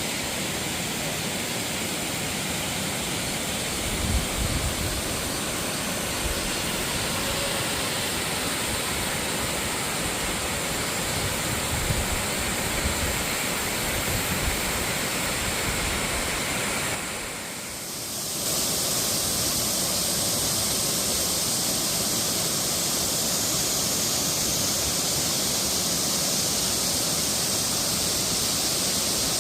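Waterfall pouring, an even rush of falling water with a few low bumps. About seventeen seconds in it dips briefly and comes back with a brighter, hissier tone.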